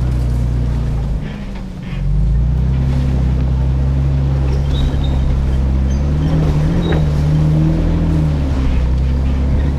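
Truck engine running under way off road, a steady low drone; it eases off briefly about a second in, then pulls again, the note rising a little about two-thirds of the way through.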